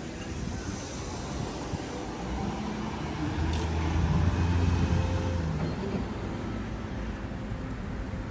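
A motor vehicle's engine passing on the street, its low hum growing louder from about three seconds in, peaking midway and then fading, over steady traffic noise.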